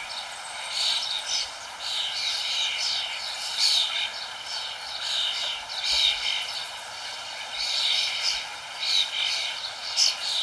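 Many small birds chirping busily, their short calls overlapping and repeating, over a steady background hiss.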